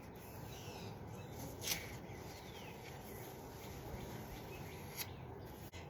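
Faint outdoor background with thin, distant bird chirps, and two soft clicks about two and five seconds in.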